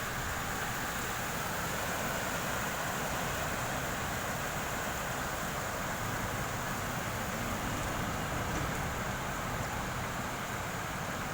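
Rain falling steadily during a storm: an even, unbroken hiss with no distinct drops or gusts.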